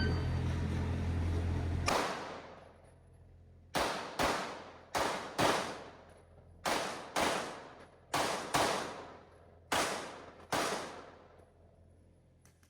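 Rapid pistol fire during a stage run: about eleven 9mm-class shots, most in quick pairs, starting about two seconds in and ending near the eleven-second mark.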